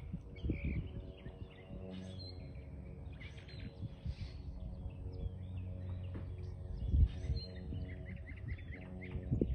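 Small wild birds chirping and twittering in short, repeated high calls over a steady low hum, with a few dull thumps, the loudest about seven seconds in.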